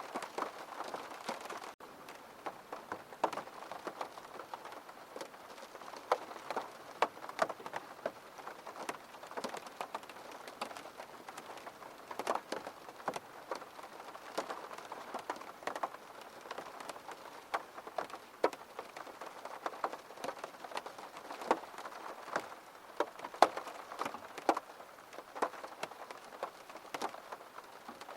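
Steady rain with many separate drops tapping close by on a surface, irregular and unbroken; the level drops a little after a brief cut about two seconds in.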